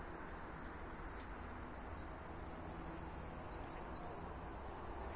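Steady low outdoor background noise with a few faint, short, high-pitched chirps scattered through it.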